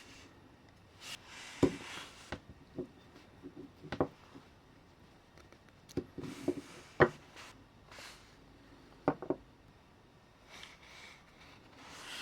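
Scattered light clicks and knocks of small parts and tools being handled on a work surface, with brief rubbing sounds in between. The sharpest knocks come about a second and a half in and about seven seconds in.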